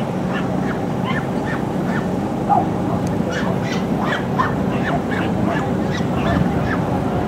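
Many short, high chirps from small birds, scattered irregularly a few times a second, over a steady low hum.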